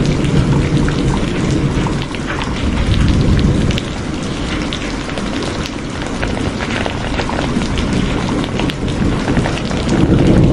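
Steady rain with many distinct drops ticking, over a low rolling rumble of thunder that is loudest at the start, eases after about two seconds and swells again near the end.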